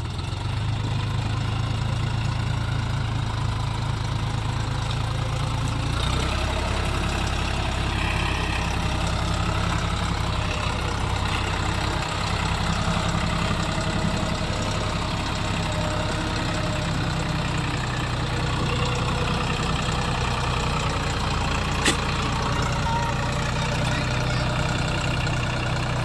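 Heavy farm diesel engine running steadily at low revs. About six seconds in its note shifts lower and heavier. A single sharp click comes near the end.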